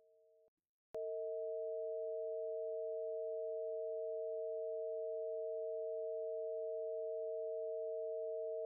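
Two pure sine tones sounding together, the Bb (460.8 Hz) and E (647.26 Hz) of the Harmonics of Nature tuning scale, forming its augmented fourth / diminished fifth interval. The pair is faint at first, stops briefly, then comes back much louder after a click about a second in and holds steady.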